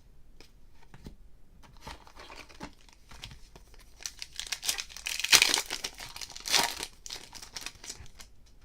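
Light card handling, then a trading-card pack's wrapper being crinkled and torn open, with two loud tearing bursts a little past the middle.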